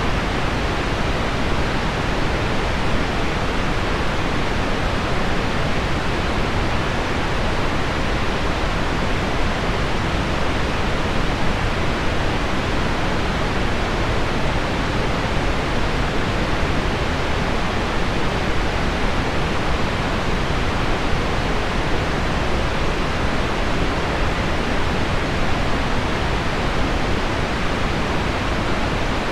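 Steady rain-on-window sound blended with deep pink noise: an even, unchanging hiss, heaviest in the low end with little treble.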